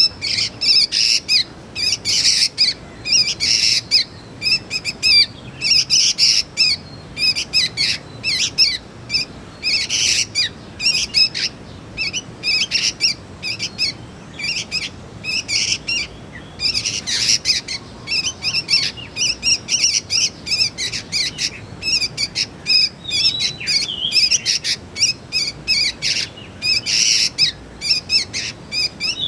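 Young sooty-headed bulbuls (kutilang) calling: rapid runs of short, high chirps with brief pauses between bursts, and a few sliding calls near the end.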